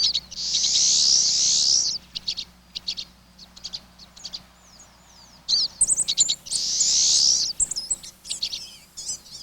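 Backyard songbirds calling: many short high chirps and quick notes, with two long buzzy trills about six seconds apart, which are the loudest sounds.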